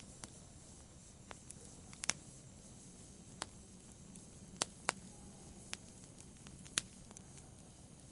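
Wood fire crackling in a fireplace: sharp, irregular pops and snaps, about one to two a second, over a steady low hiss of burning.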